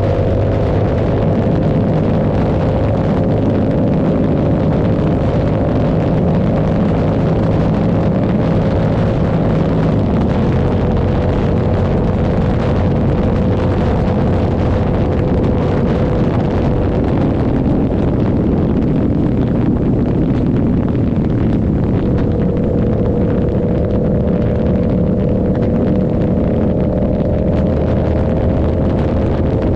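Yamaha R7's 689 cc parallel-twin running through an aftermarket SC Project exhaust while the motorcycle cruises. The engine note holds fairly steady and sags slightly, then steps up about two-thirds of the way in and climbs gently.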